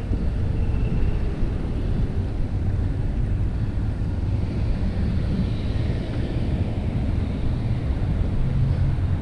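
Wind buffeting an action camera's microphone during a mountain-bike ride: a steady low rumble with no distinct events.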